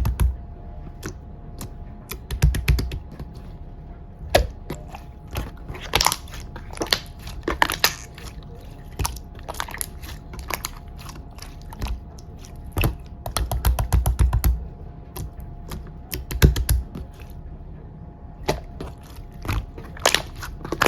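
Slime being squished and kneaded by hand, making irregular sticky clicks and pops, sometimes in quick clusters, with a few soft low thumps.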